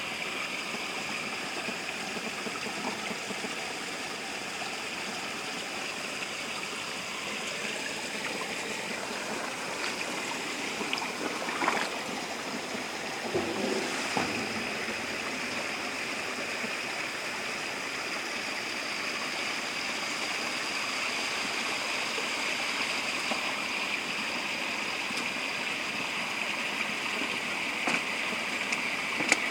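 Spring water running steadily out of a forest spring, a continuous rushing and gurgling flow. A few short knocks come about halfway through and once near the end.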